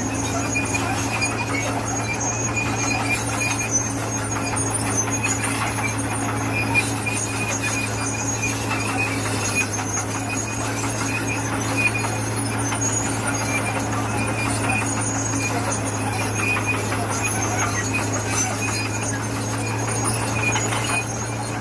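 Heavy earthmoving machinery at work: a steady low engine drone with rows of short, high-pitched squeals on top.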